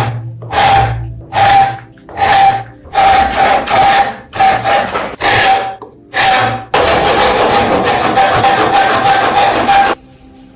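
Rasping strokes of a file or abrasive on a metal lamp body, about one every 0.7 s, each with a ringing tone. About two-thirds of the way in this changes to one continuous rasp of about three seconds, which stops before the end.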